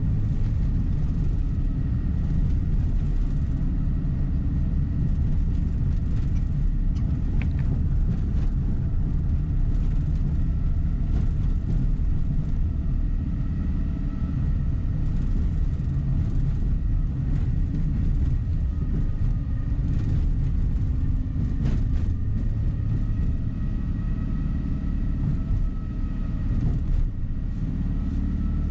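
Tour coach under way, heard from inside the passenger cabin: a steady low rumble of engine and road noise, with a faint whine and an occasional light click or rattle.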